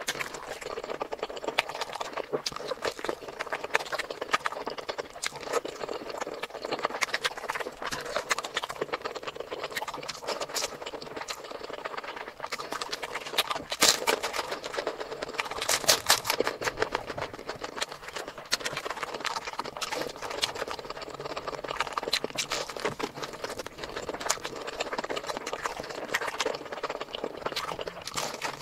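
Close-miked eating sounds: wet chewing and smacking of a steamed dumpling and a fried chicken lollipop, with many quick sticky clicks. The bites are louder and crisper about halfway through.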